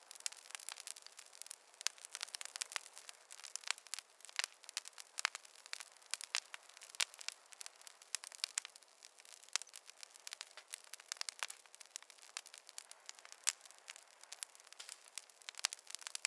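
Campfire crackling: a steady stream of irregular small pops and snaps.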